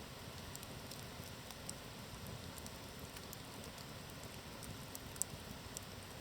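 Campfire burning with a steady hiss and scattered small crackles, with one sharper pop about five seconds in.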